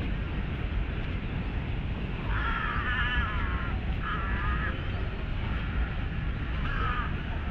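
A crow cawing three times, harsh calls a second or two apart, over a steady low rumble.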